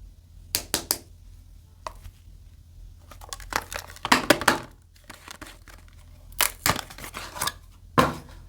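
Soap bar wrapping being crinkled and torn by hand in irregular bursts: a few quick sharp strokes early, a longer crinkling run in the middle, and more strokes near the end.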